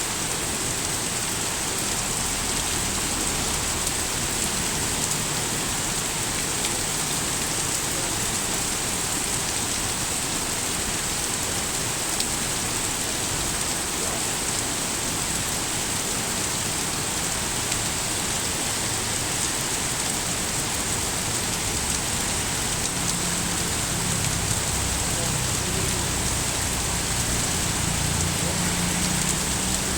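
Steady rain falling, an even hiss with no breaks. A low rumble comes up under it in the last several seconds.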